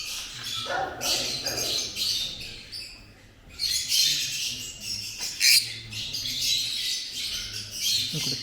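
Lovebirds chirping and chattering in repeated shrill bursts, with one sharp click about five and a half seconds in.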